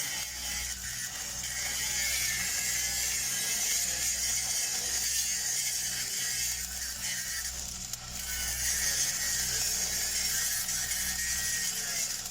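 Stick (SMAW) welding arc crackling and sizzling steadily as a downhill pass is run on large-diameter steel pipe, with a low hum underneath. The crackle dips briefly about eight seconds in.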